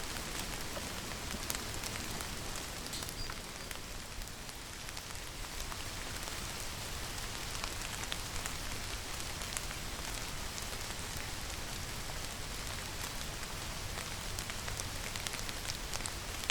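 Steady rain falling on a surface, with many separate drops ticking through the hiss.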